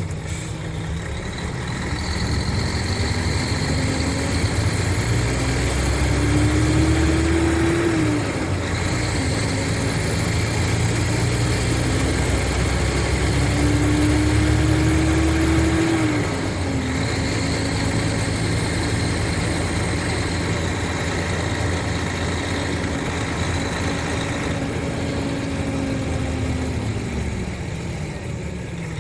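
Mercedes-Benz O500RSD coach's diesel engine running under load. Its pitch climbs and then drops abruptly twice, about 8 and 16 seconds in, as it goes up through the gears. It then holds steady and falls away near the end as the coach slows.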